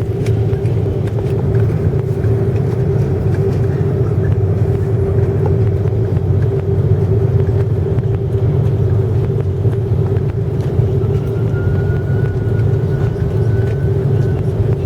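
Steady drone of an Airbus A330-300 airliner heard from the cabin: a low rumble with a steady hum tone, even in level and not rising toward takeoff power. A faint thin whistle, rising slightly, comes in for a few seconds near the end.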